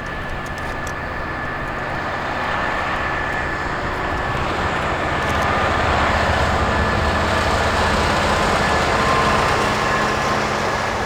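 Engine noise of a heavy vehicle passing, building up slowly to its loudest past the middle and then fading, over a steady low hum.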